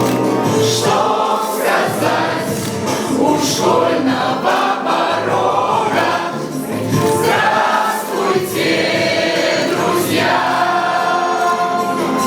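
A choir singing together over a musical backing track, in sustained melodic phrases.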